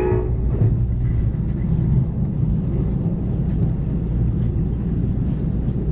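Amtrak Cascades passenger train running at speed, a loud steady low rumble of wheels on rails. The locomotive's horn blast cuts off just after the start.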